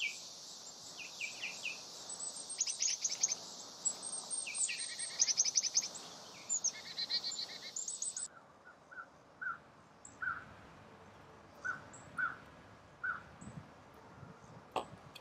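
Birds singing outdoors, rapid trilled and chirped phrases over a steady high hiss. About eight seconds in, the sound changes abruptly to a single bird repeating a short call every second or so, with one sharp click near the end.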